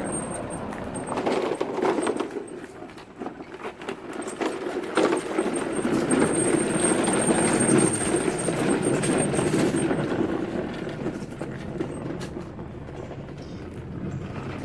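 Lawn mower engine running as the mower moves across the yard, louder through the middle and easing off near the end.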